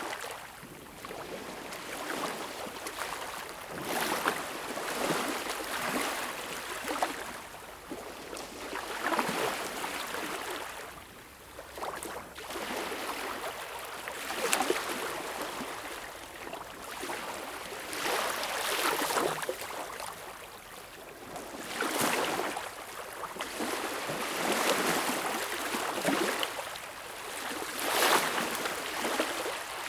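Sea waves washing in, a rushing hiss that swells and eases every few seconds.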